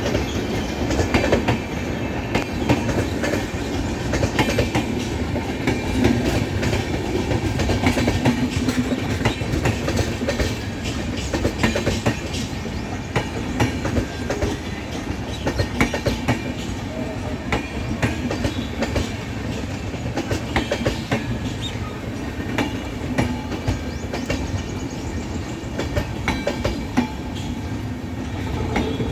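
Passenger express train rolling along the track, its coach wheels clacking over rail joints and points in a steady run of sharp clicks over a continuous rumble.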